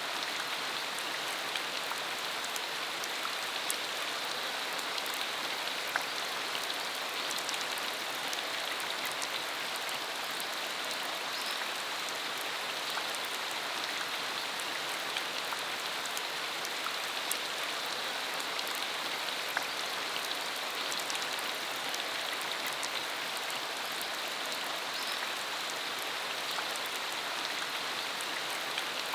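Steady rain falling on a country dirt road, a constant hiss of rainfall with many small, sharp drop ticks scattered through it.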